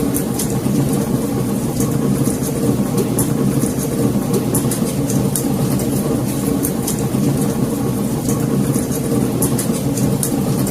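Wood fire in a fireplace crackling, with frequent sharp pops and snaps, several a second, over a steady low rumble.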